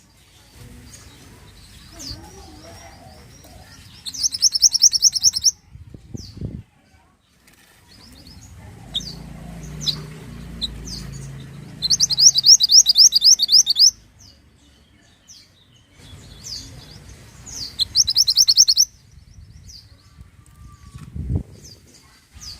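A mantenan songbird singing: scattered short high chirps, broken three times by a loud, fast, rapidly repeated trill lasting about one and a half to two seconds.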